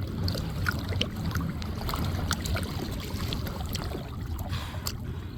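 Water lapping and dripping around a kayak, with many small drips and splashes over a steady low rumble.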